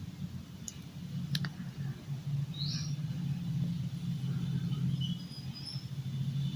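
A steady low hum with a bird's short high call in the background, and two light clicks about a second in.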